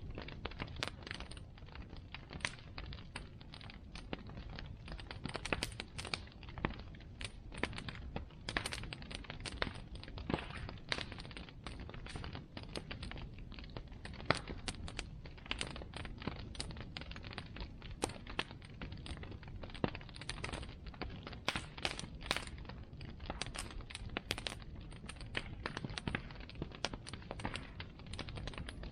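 Bonfire crackling: burning wood snapping and popping in rapid, irregular clicks over a low, steady rumble.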